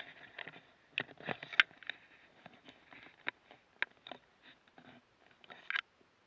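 A run of irregular light knocks, clicks and scrapes, about a dozen of them, with the sharpest about a second and a half in.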